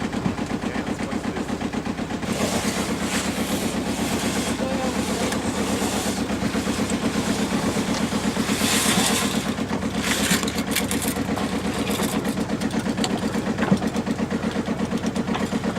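Sailboat's diesel engine running steadily under way, with an even, rapid pulsing beat. A few brief bursts of hiss pass over it.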